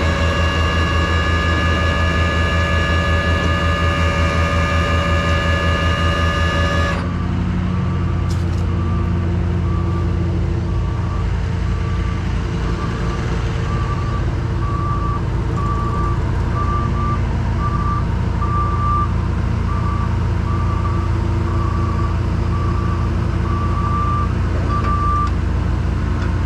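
Diesel machinery running with a loud, steady high-pitched hydraulic whine over the engine for about the first seven seconds; then the whine stops and a backup alarm beeps about once a second over the engine.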